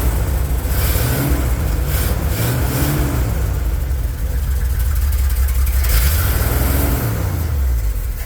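1986 Ford F250's 300 cubic-inch inline-six running, its pitch rising and falling several times as the throttle is blipped at the carburetor. The owner suspects a large vacuum leak through an open smog-system port.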